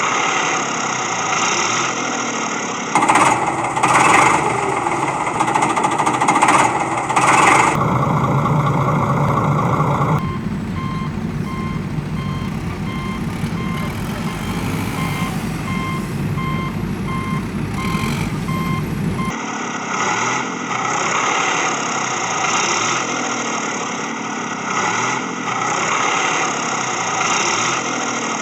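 Heavy vehicle engines running, with a reversing alarm beeping at a steady pace through the middle stretch, from about ten seconds in to about nineteen.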